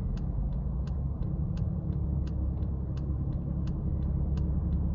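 Steady low rumble of a car idling, heard inside the cabin, with a light tick repeating evenly about every 0.7 seconds.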